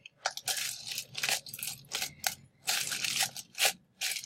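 Plastic packaging crinkling in short, irregular bursts as a squishy toy in its bag is handled.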